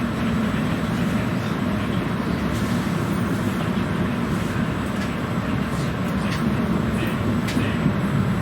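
Regional passenger train running along the track: a steady low rumble, with a few faint clicks in the second half.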